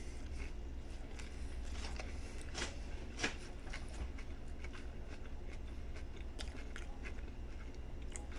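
A person biting and chewing a sub sandwich of turkey, ham and vegetables: scattered soft crunches and mouth clicks over a low steady hum.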